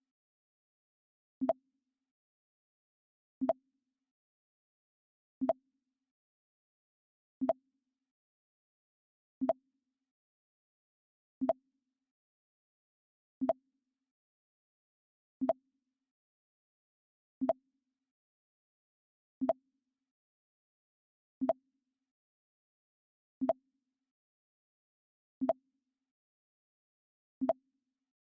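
Mac OS X 'Pong' system alert sound, a short pong played over and over, once every two seconds.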